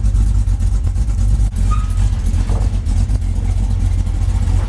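Motor vehicle engine running with a loud, steady low rumble.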